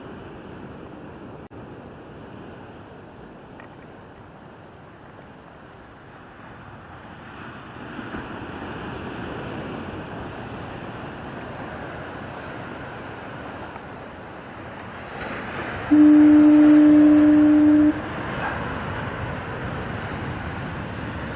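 Heavy surf breaking on the shore, kicked up by Hurricane Earl, growing louder about a third of the way in. Near the end a lighthouse fog signal gives one steady, low horn blast lasting about two seconds.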